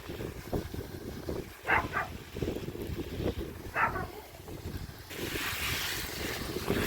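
Wind buffeting the microphone in an irregular low rumble, with two short high chirps about two and four seconds in and a hiss rising near the end.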